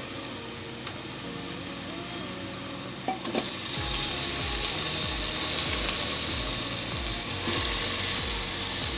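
Onion-tomato masala sizzling in hot oil in a pressure cooker pan. About three and a half seconds in, raw chicken pieces go into the masala and the sizzling becomes louder and brighter.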